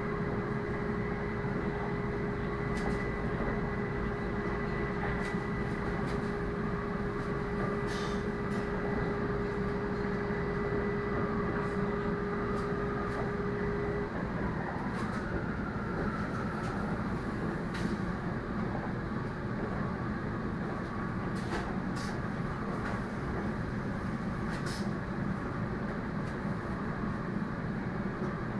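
Cabin noise of a moving Shinkansen bullet train heard from a passenger seat: a steady rumble with a constant hum tone that stops about halfway through, and a few faint clicks.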